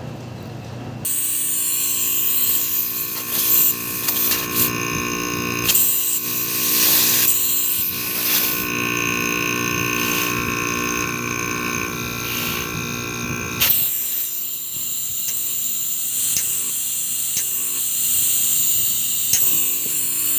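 Air conditioner compressor running with a steady mechanical hum and high whine, just switched on after being replaced. About 14 s in the sound drops to a quieter, hissier run with a few light clicks.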